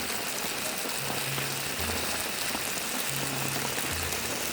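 Steady hiss of falling or running water, with a low two-note hum repeating about every two seconds underneath.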